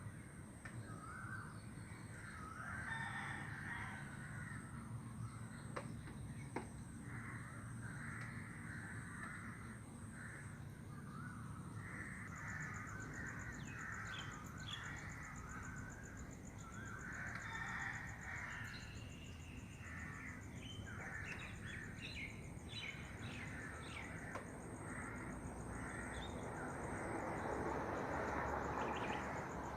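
Birds calling: repeated harsh, raspy calls in short bursts, over a steady thin high-pitched whine that picks up a fine buzzing pulse about halfway through.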